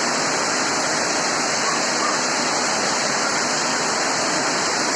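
Rain pouring down: a steady, loud, unbroken hiss of falling water.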